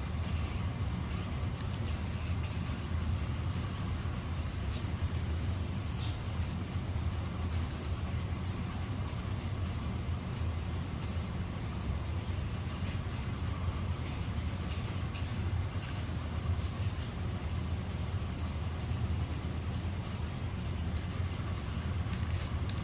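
Aerosol can of gloss spray paint giving short, light spritzes in quick succession, about one or two a second, over a steady low background hum.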